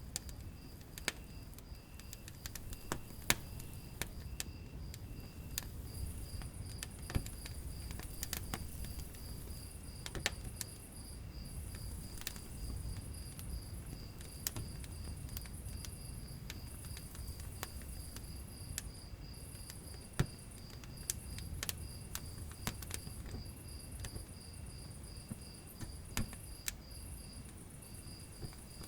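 Wood fire crackling, with frequent sharp pops over a low rumble. Insects chirp in a steady pulsing trill throughout, and a higher chirping comes in phrases from about six seconds in.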